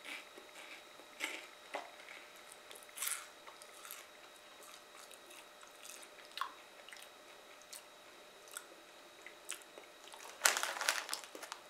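A person chewing crunchy cheese-flavoured corn puffs: faint, scattered crunches, with a louder stretch of noise near the end.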